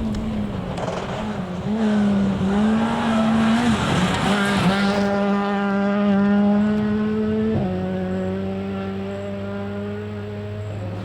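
Rally car engine at high revs, its pitch dipping and jumping back up at gear changes, with a rushing hiss building up to about five seconds in. It then holds a steady note, drops suddenly in pitch about seven and a half seconds in, and fades as the car moves away.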